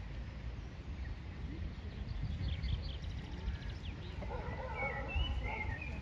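Birds chirping and calling from about two seconds in, with a quick high trill and then warbling calls, over a steady low rumble.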